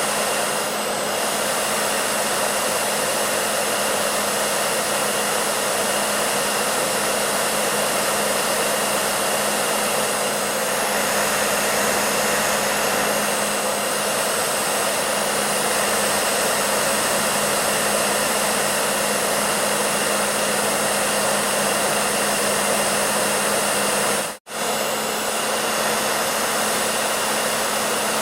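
Hair dryer running steadily: a constant rush of blown air with a low steady hum beneath it. The sound cuts out for an instant about 24 seconds in, then carries on unchanged.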